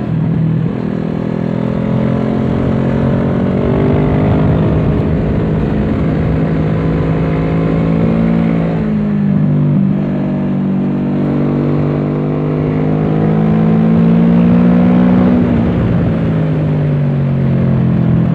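Kawasaki Z650's parallel-twin engine running through an aftermarket Dominator exhaust, on track. It pulls steadily up through the revs, drops sharply about nine seconds in, climbs again, and falls once more near the end as the throttle comes off.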